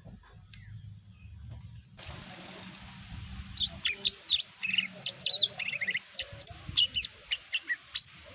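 Green leafbird (cucak ijo) singing a fast run of sharp, high chirps and whistles, starting about three and a half seconds in over a light hiss.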